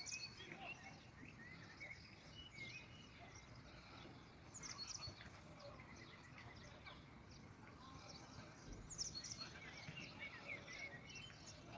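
Faint birds chirping, with quick high calls coming in clusters, over a low steady background noise.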